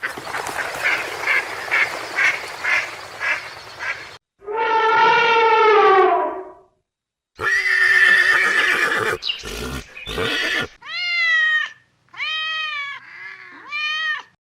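A string of different animal calls, one clip after another: a quick run of pulsed calls, a long call falling in pitch, a rougher call with a few clicks, then three short rising-and-falling calls near the end.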